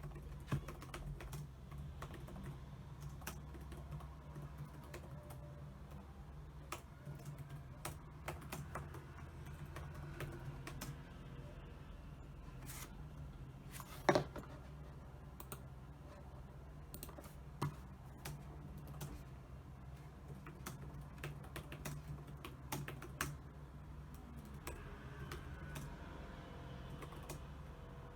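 Typing on a computer keyboard: a steady stream of irregular key clicks, with one louder knock about halfway through, over a low steady hum.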